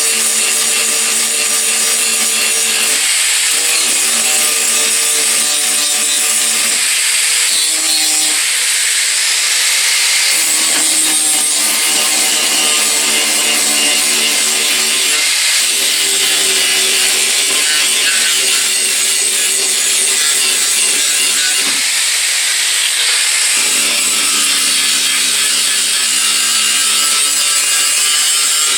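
Handheld power tool working against a surface: a loud, steady abrasive hiss over a motor hum that drops out and changes pitch every few seconds.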